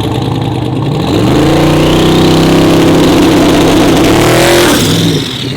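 Twin-turbo 4x4 drag truck's engine running without nitrous: it revs up about a second in, holds high and steady for about three seconds, then drops off near the end.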